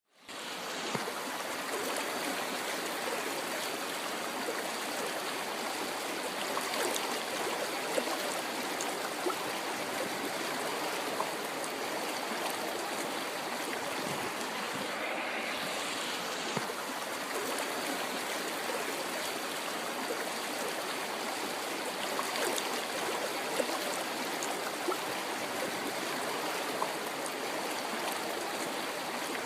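River water flowing over rocks: a steady rushing and babbling, with small splashes now and then. It fades in during the first half second.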